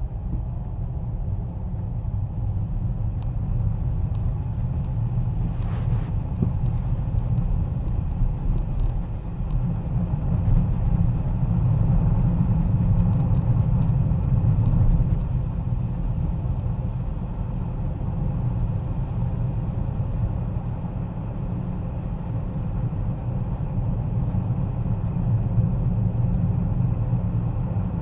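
A car driving on wet roads, heard as a steady low rumble of tyres and engine that swells slightly around the middle. A brief hiss rises over it about six seconds in.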